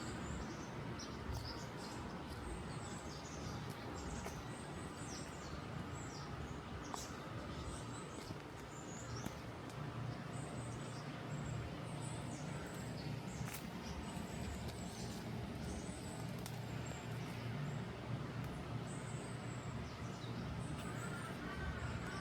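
Japanese tit (박새) calling: short, high chirps repeated irregularly throughout, over a steady low background rumble.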